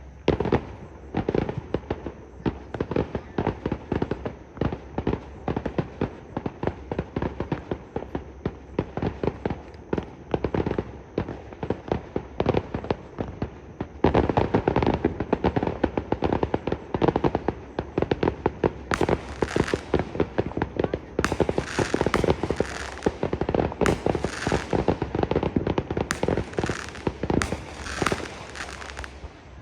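Aerial fireworks display: a rapid, continuous series of shell bursts, several bangs a second. The bangs come thicker and louder from about halfway, and stretches of high hissing crackle join them later on.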